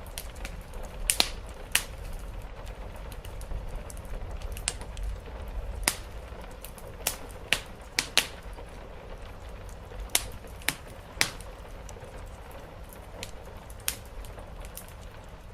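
Wood fire crackling in a fireplace: about a dozen irregular sharp pops and snaps over a steady low rumble.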